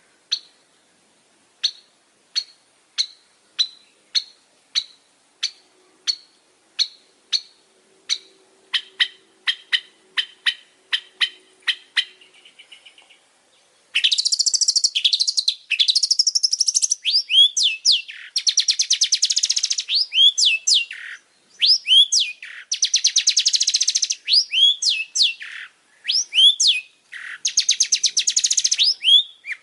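Long-tailed shrike (pentet) singing: first a run of short, sharp notes that come faster and faster, then, about halfway through, a loud, dense chattering song of rapid buzzy trills mixed with quick downward-slurred whistles.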